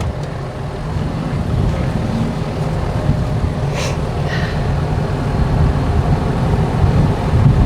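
Truck engine running as the truck is driven slowly, a steady low rumble that grows slightly louder.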